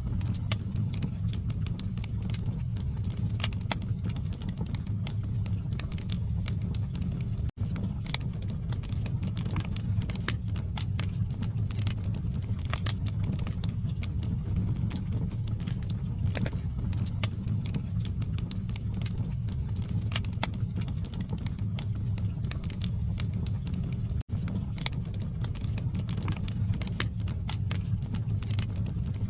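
Log fire burning in a fireplace: a steady low rush of flame under frequent sharp crackles and pops from the burning wood. The sound cuts out for an instant twice.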